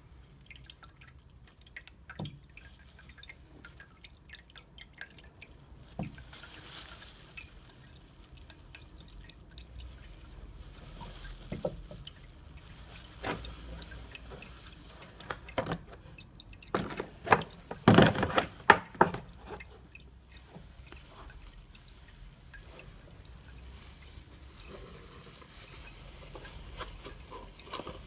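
Diesel fuel dripping, with scattered small clicks. About two-thirds of the way through comes a short burst of loud knocks and clatter from parts or tools being handled.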